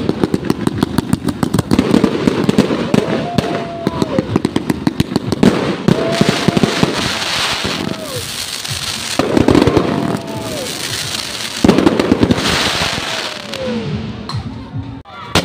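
Fireworks going off in a rapid string of bangs and crackles. Four long whistles sound through it, each sagging in pitch at the end.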